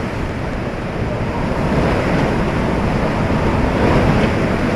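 Hurricane eyewall winds blowing hard and buffeting the microphone: a steady, loud rushing noise with a heavy low rumble.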